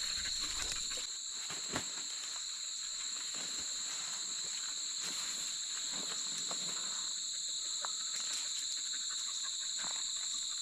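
Steady high-pitched insect chorus, an unbroken trill of two held pitches. A few faint short clicks come through it, the sharpest about two seconds in.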